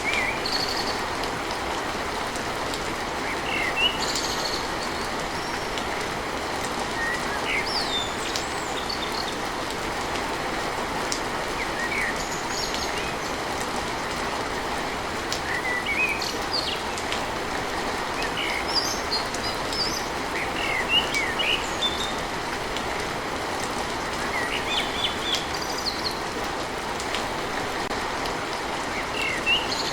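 Steady rain on a tin roof, a constant hiss with occasional sharp drips, while small birds chirp in short bursts every few seconds.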